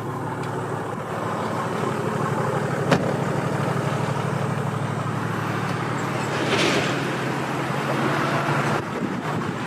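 Toyota 1HD-T 4.2-litre inline-six turbo diesel idling steadily, with a single sharp click about three seconds in.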